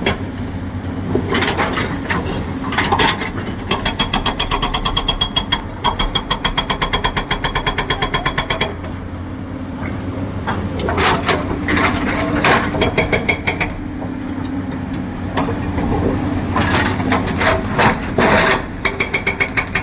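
Excavator diesel engine running with a steady low drone, overlaid by spells of rapid metallic clattering; the longest is a fast, even rattle lasting about five seconds in the middle.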